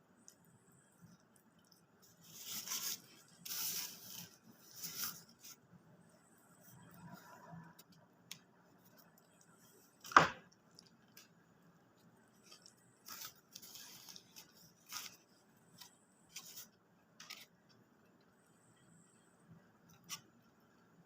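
Close-up eating sounds from McDonald's food: short, noisy bursts of biting, crunching and rustling, with one sharp click about ten seconds in.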